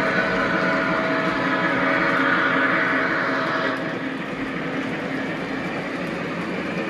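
Lionel model train running on the layout: a steady rolling rumble with some steady tones that fade back about four seconds in.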